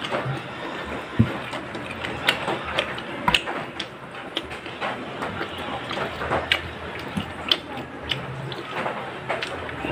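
Close-up eating sounds: wet chewing and lip-smacking of grilled pork eaten by hand, as irregular sharp clicks. A couple of louder knocks, about a second and about three seconds in, are fingers and food on the plate.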